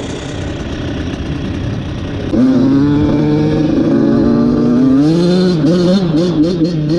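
Off-road engine running, with a low rumble at first. About two seconds in it gets louder and climbs in pitch, and from about five seconds in it revs up and down in quick wavering swings as the throttle is worked.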